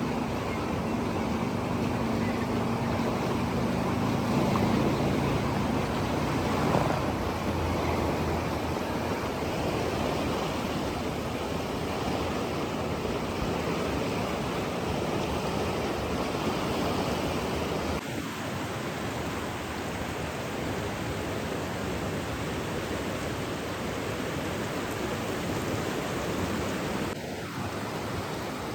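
Steady rushing water, an even hiss of running water or surf. The deepest rumble thins out about two-thirds of the way through.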